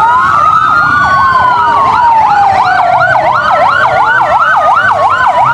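Fire engine sirens, several layered at once: slow rising-and-falling wails joined by a fast yelp of about three sweeps a second, cutting off suddenly at the end.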